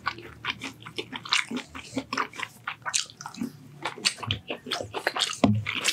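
A person chewing food close to a microphone, with irregular wet smacks and clicks of lips and mouth.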